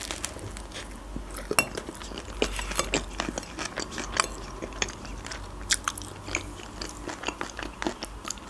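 A person chewing a mouthful of shawarma, with many short wet clicks and smacks of the mouth at an uneven pace.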